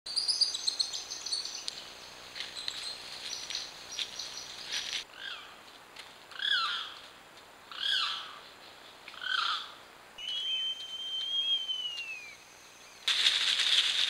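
Wild birds calling over forest ambience: a quick run of high chirps at the start, then one call repeated three times about a second and a half apart, then a long steady whistle that falls at its end. Near the end the background changes suddenly to a louder, dense hiss.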